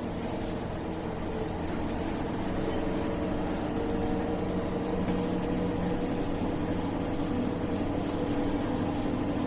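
Inside a moving MAN A21 city bus: a steady engine and running drone, growing slightly louder over the first few seconds, with a thin high whine throughout.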